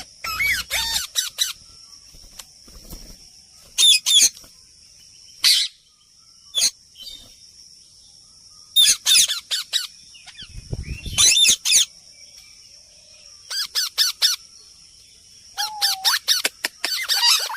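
Parrots squawking and chattering in short bursts of rapid, warbling calls, about eight bursts spread over the stretch. A steady high-pitched whine runs underneath.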